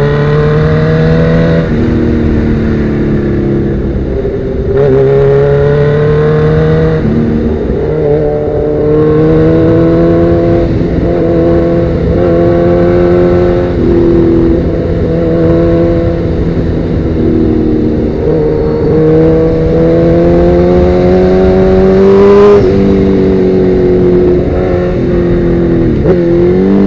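Sportbike engine through Danmoto XG-1 slip-on exhausts, riding under load. The engine note climbs steadily, then drops abruptly at each gear change, several times over.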